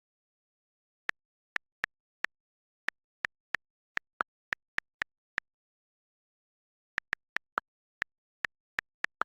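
A run of short, sharp clicks at an uneven pace, about two to four a second, with nothing heard between them; they start about a second in, pause for about a second and a half in the middle, then resume.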